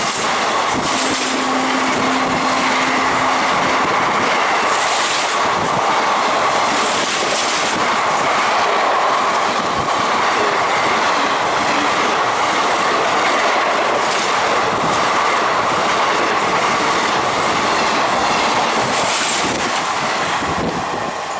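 Fast passenger train passing close by on Indian Railways track: a steady loud rush of wheels on rail with clickety-clack over the rail joints, easing a little near the end.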